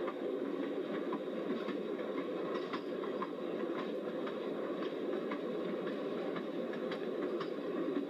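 A moving passenger train car heard from aboard: a steady rumble of wheels on the rails, with scattered clicks as the wheels pass over the track.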